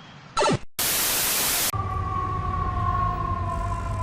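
A brief falling sweep, then a loud burst of static hiss lasting about a second, which gives way to a steady held tone that drifts slightly lower in pitch.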